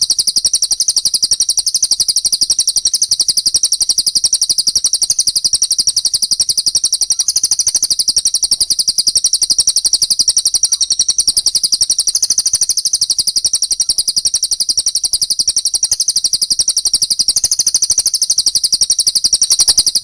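Recorded songbird chatter for training cage birds: a loud, very fast, evenly repeated high-pitched trill that runs on without a break and cuts off suddenly at the end.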